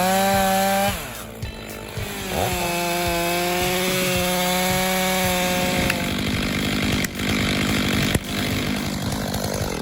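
Chainsaw engine revving up and running at high speed while cutting wood; it revs up again about two and a half seconds in and holds a steady whine.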